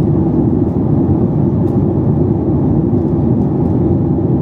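Steady low rumble of Boeing 737 MAX 8 cabin noise, the engines and airflow heard from a passenger seat.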